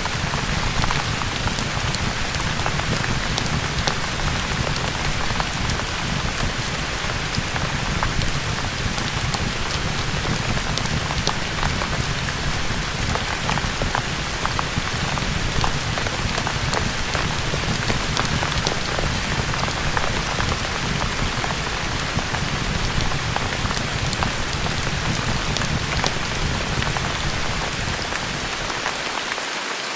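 Steady rain ambience mixed with a crackling fireplace: a constant dense hiss with a low rumble and many small, sharp ticks scattered through it. The low rumble briefly drops away near the end.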